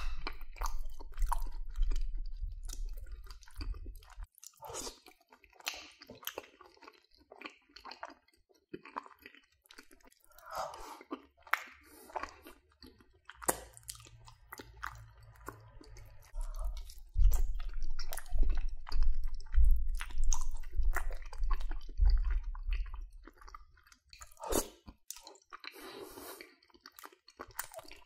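Close-miked ASMR chewing of creamy macaroni and cheese: a steady run of mouth sounds and sharp little clicks, louder and with a deep low rumble for several seconds past the middle.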